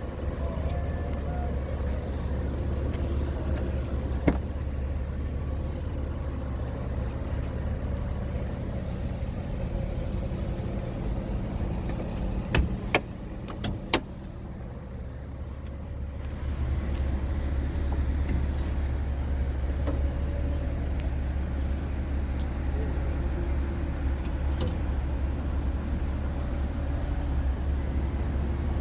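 Porsche Boxster S 986's 3.2-litre flat-six engine running steadily with a low rumble, a few sharp clicks in the middle, and the engine getting louder a little past halfway.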